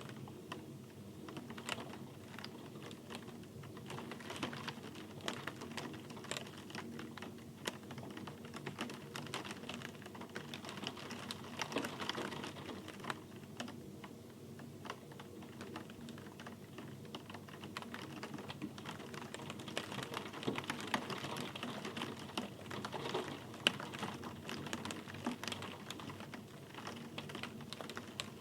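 Rain falling, with dense, irregular raindrops ticking sharply on a hard surface over a soft hiss.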